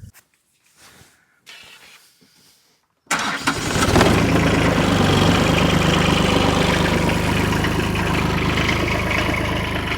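Diesel tractor engine starting from cold after its glow plugs have been heated. It catches abruptly about three seconds in, then runs steadily at idle.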